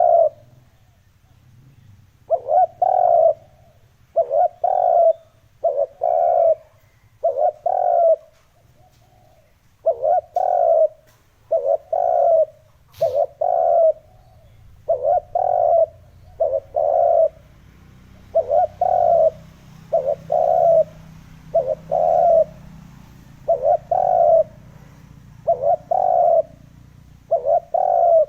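Spotted dove cooing over and over in short phrases of two or three notes, about one phrase every second and a half. It is a calling track played to lure wild doves.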